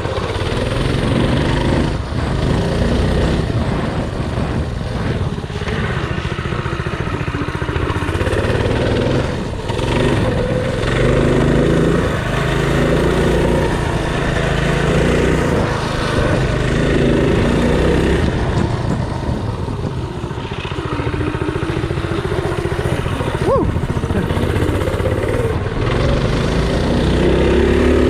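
Mini bike engine running under load while being ridden through mud, revving up and falling back again and again.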